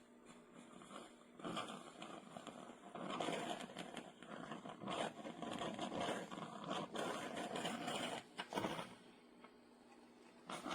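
Irregular scraping and rustling, in uneven bursts over several seconds, over a faint steady hum.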